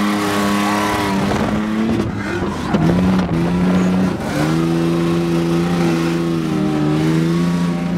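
LS1 V8 engine of a BMW E46 drift car running hard at high revs with tyre squeal. Its pitch steps down about two to three seconds in as the throttle comes off, then holds steady at a lower pitch.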